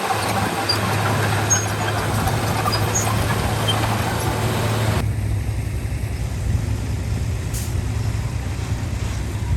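Heavy diesel earthmoving engine running steadily, with a noisy hiss over it that cuts off abruptly about halfway through.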